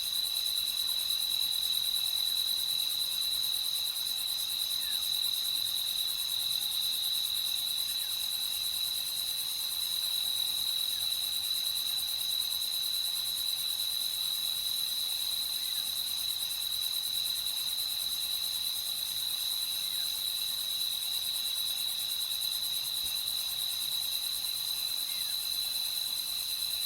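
Crickets chirping in a dense, continuous night chorus: one steady high-pitched trill, unbroken throughout.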